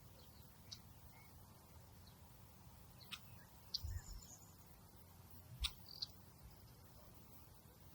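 Faint outdoor nature ambience: a soft steady hiss with a few brief high-pitched chirps and sharp clicks scattered about three to six seconds in.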